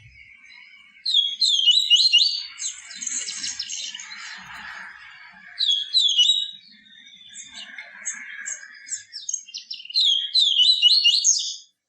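Papa-capim seedeater singing its 'tui tui viviti' song: loud bursts of fast, high twittering phrases about a second in, around six seconds, and near the end, with softer chattering between them.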